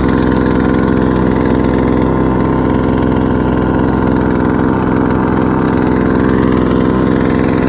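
Small 2-horsepower outboard motor running at a steady, unchanging speed, as for trolling.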